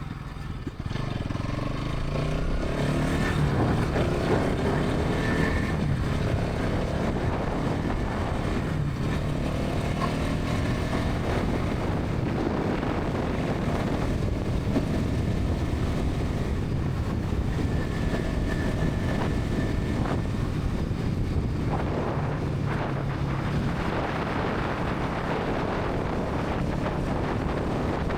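Bajaj Pulsar NS 200's single-cylinder engine and exhaust running at highway speed, rising in pitch as the bike accelerates a couple of seconds in and again around ten seconds, over a steady rush of wind and road noise.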